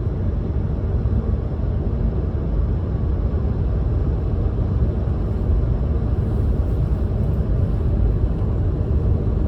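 Steady loud low rumble of noise, with no distinct events in it.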